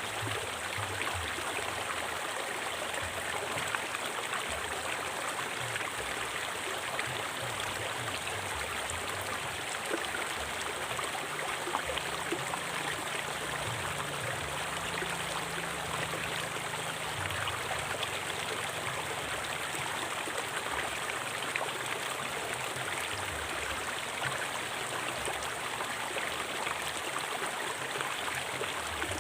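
Forest river flowing over rocks: a steady rush of water with small splashes and trickles.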